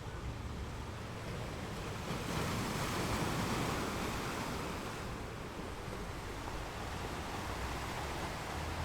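Ocean waves on a beach: one wave washes in about two seconds in, swells and fades over a few seconds, over a low steady rumble of surf.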